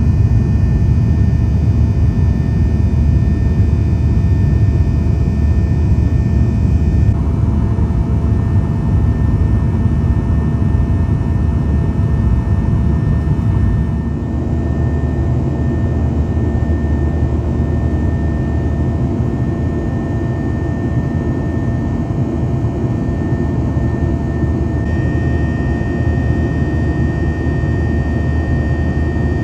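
Boeing 737-900ER jet engine and airflow noise heard from inside the cabin: a steady low rumble with a few faint steady tones over it, its balance shifting abruptly a few times.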